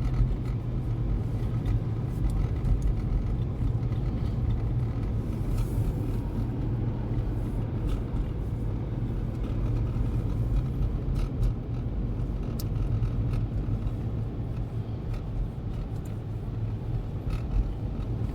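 Car driving at a steady speed, heard from inside the cabin: a continuous low rumble of the engine and tyres on the road, with a few faint ticks now and then.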